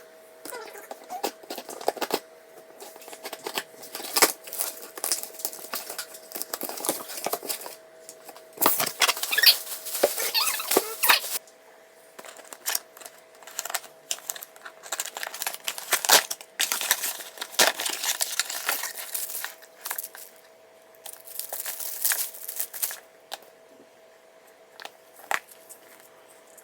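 Packaging being handled and torn open: repeated bursts of crinkling and tearing plastic and paper, with short pauses between.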